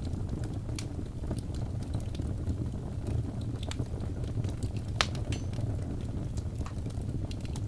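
Wood fire crackling in a fireplace: a steady low rumble of flames with irregular sharp pops and snaps, the loudest pop about five seconds in.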